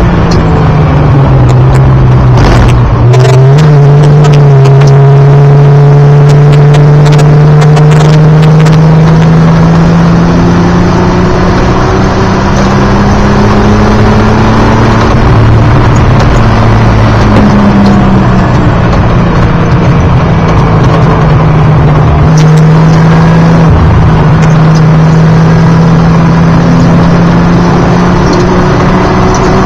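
Datsun 280ZX straight-six race engine, loud from inside the cabin while lapping. Its pitch falls, jumps up about three seconds in, climbs slowly for a long stretch, drops a little past the middle, then holds fairly steady.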